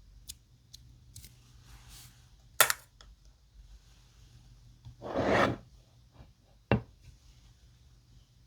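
Slime being handled: a few sharp clicks and pops, with a longer squishing stretch a little past five seconds in.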